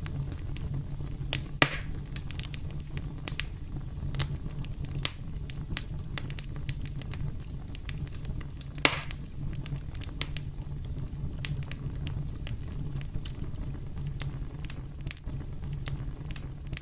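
Campfire crackling and popping over a steady low rumble, with two louder pops, one about a second and a half in and one near the middle.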